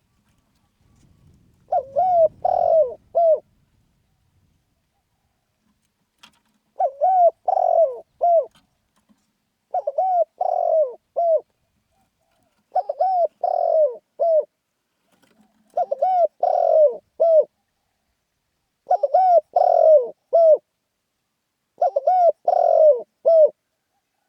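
Spotted dove cooing in a brisk, rousing series: seven phrases of a few low, hoarse coos each, one about every three seconds.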